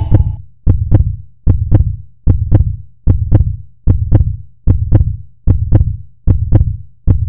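Heartbeat-like sound effect: a low double thump, lub-dub, repeating steadily about every 0.8 seconds.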